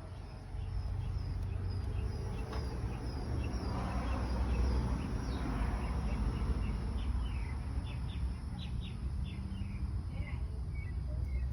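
Small birds chirping in repeated short high notes over a steady low rumble. The chirps grow busier and more varied in the second half.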